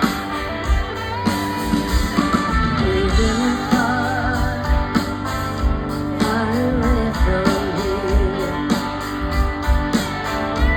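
Live rock band playing with guitars and drums on a steady beat, with a wavering, vibrato-laden lead melody line in the middle.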